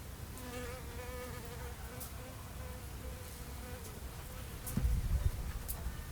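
A flying insect buzzing close by, a wavering hum that drifts in pitch for about two and a half seconds before fading. A louder low thump comes about five seconds in.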